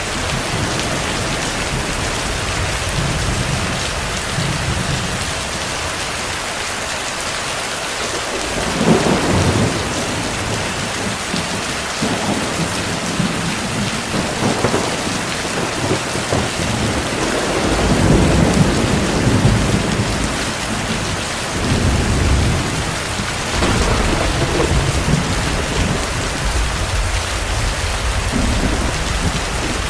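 Steady heavy rain with thunder rumbling repeatedly from about nine seconds in, the longest roll building near the middle.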